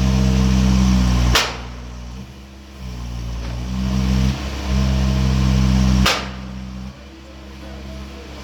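Hydraulic impact hammer striking two single blows about five seconds apart, each a sharp hit. Between them runs a steady engine hum driving the hydraulics, which is loud before each blow and eases off right after it.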